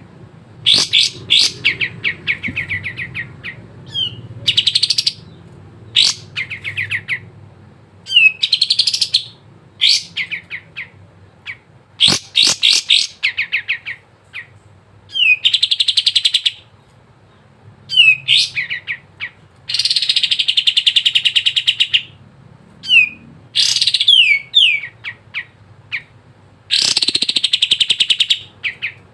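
A kapas tembak singing in bursts: fast rattling runs of rapidly repeated notes and short upslurred whistles, with brief pauses between phrases.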